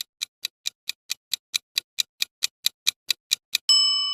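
Countdown timer sound effect: a fast, even clock-like ticking, about four to five ticks a second, ending near the end in a bright bell ding that rings on and fades.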